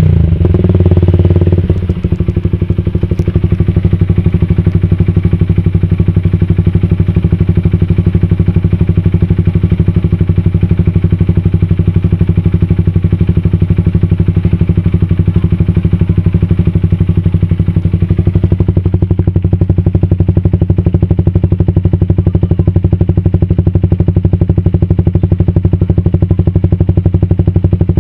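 Suzuki Satria FU's single-cylinder four-stroke engine running through an aftermarket racing exhaust, dropping back from a rev in the first two seconds and then idling steadily with an even, rapid exhaust beat.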